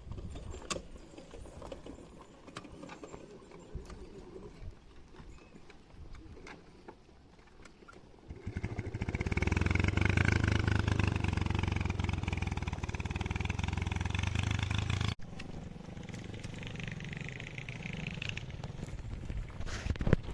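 Motorcycle engine running: quiet at first with scattered clicks and knocks, then about eight seconds in the engine comes up loud and steady, before cutting off suddenly and continuing more quietly.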